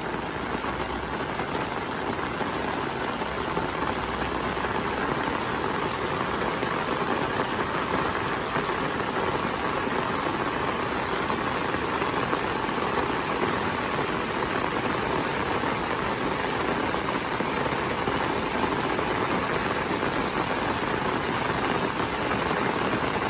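Steady rain falling: an even hiss that does not let up or change.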